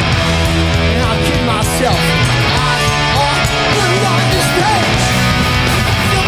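Hardcore punk band playing live: loud distorted electric guitars, bass and drums.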